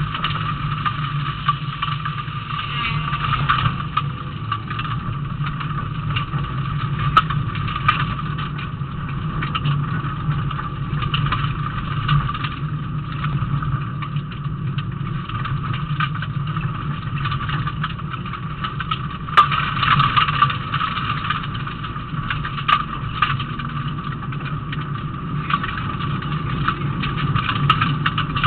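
Rally car engine running steadily, heard from inside the cabin, with scattered knocks and rattles from the road and the car's body; a sharper knock about 19 seconds in.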